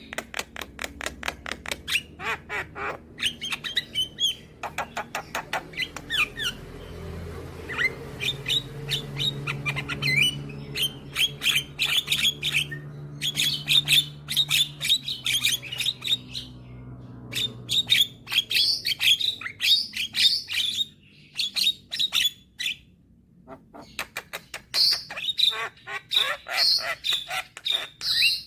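Young Javan myna (jalak kebo) singing a long, rapid chatter of harsh squawks and clicking notes, broken by a short pause about 21 seconds in.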